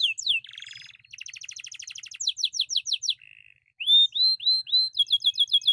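Domestic canary singing a long, varied song: fast runs of repeated downward-sweeping notes, a rapid trill and a buzzy rattle, then rising hooked notes after a brief pause about three and a half seconds in.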